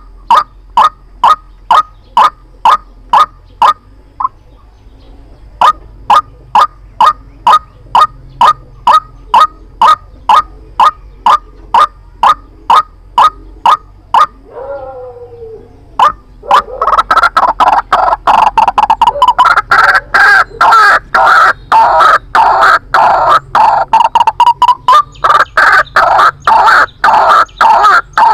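White-breasted waterhen lure call: a steady string of short, identical calls, about two and a half a second, with a brief pause about four seconds in. A few lower, falling notes come about fourteen seconds in, then from about sixteen seconds a louder, faster and denser run of calls.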